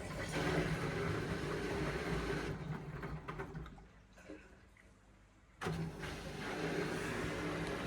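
Indesit washing machine's drum motor turning the load with a steady hum, winding down about three seconds in, pausing, then starting up again suddenly near six seconds: the back-and-forth tumbling of the wash.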